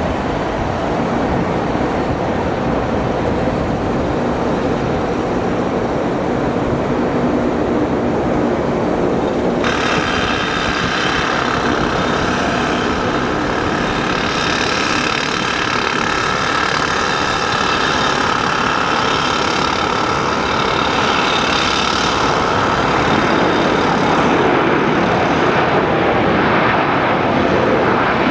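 A Boeing 737-800's CFM56 turbofan jet engines on landing approach: a steady rumble, joined about ten seconds in by a high engine whine that carries on as the jet draws closer.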